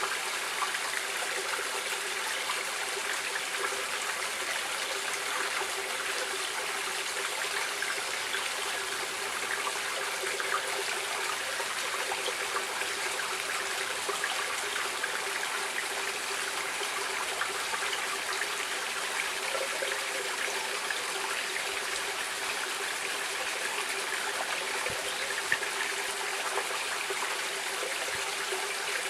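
Stream water running and trickling steadily, with small splashes and gurgles.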